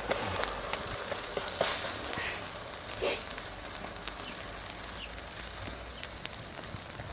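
Msemen flatbread cooking on a griddle over a charcoal kanoun: a steady sizzling hiss with scattered small crackles and ticks.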